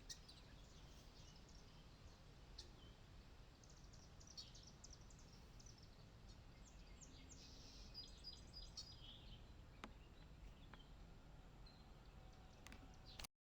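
Faint, scattered bird chirps over a steady low background rumble, the calls bunched in the middle of the clip.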